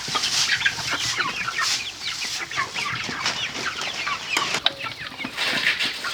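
A flock of chickens cheeping and clucking, many short calls overlapping one another.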